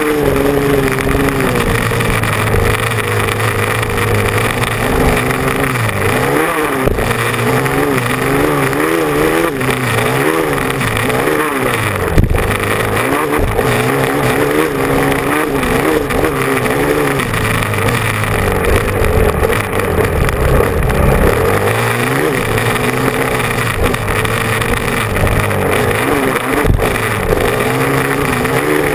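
Motocross bike engine revving hard, its pitch rising and falling again and again as the throttle is opened and closed. A sharp knock about twelve seconds in.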